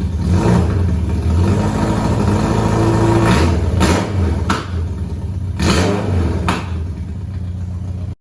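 BMW K1's inline-four engine running through an aftermarket full exhaust, revved up and back down, with a few sharp cracks partway through.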